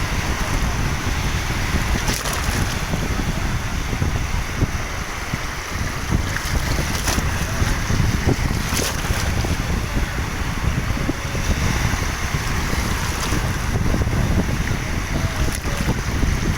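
A steady outdoor rushing noise with wind buffeting the microphone, and a few faint knocks along the way.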